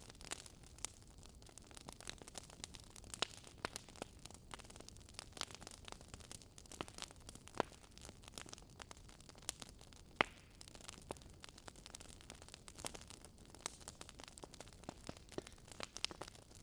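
Wood fire crackling: a soft steady hiss with irregular sharp pops and snaps, a few each second, one louder snap about ten seconds in.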